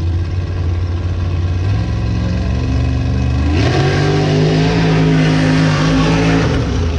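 A vehicle engine revving hard under full throttle in a mud run. Its pitch steps up about two seconds in and again halfway through, with a rough, spattering noise over it, then it drops back near the end.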